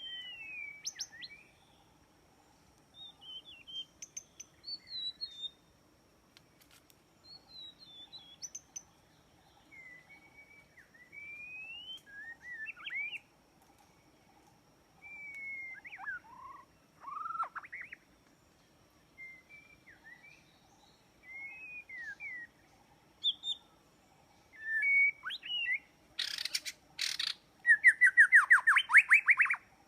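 White-rumped shama (murai batu) singing: a string of short, varied whistled phrases with pauses between them. Near the end come a few harsh rasping notes and then a fast run of repeated notes.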